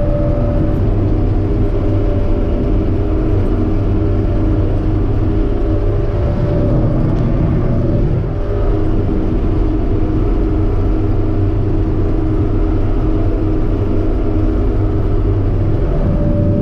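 Claas Dominator 85 combine harvester running steadily, heard from inside its cab: a loud, even drone of diesel engine and machinery, with a thin whine that fades out and comes back a few times.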